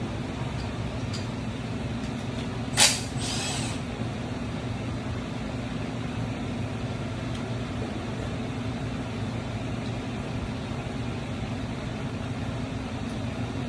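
A steady mechanical hum, with one sharp burst and a short hiss about three seconds in.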